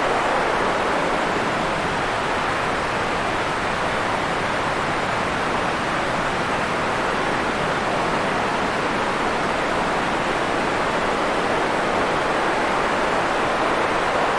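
Steady rushing noise of a white-noise sleep track, an even hiss with no pitch or rhythm that swells and eases slowly.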